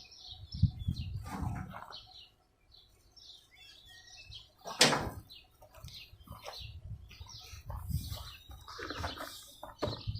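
Small birds chirping in the background, over irregular knocks and handling noise, with one sharp clank about five seconds in.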